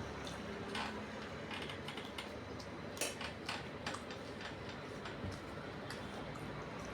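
Eating sounds: a person chewing a mouthful of rice and small-fish curry, with irregular small wet clicks and smacks, the loudest about three seconds in.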